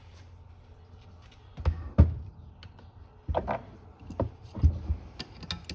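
Small screwdriver working on a Quick Fuel carburetor: a string of separate metal clicks and knocks, the loudest about two seconds in.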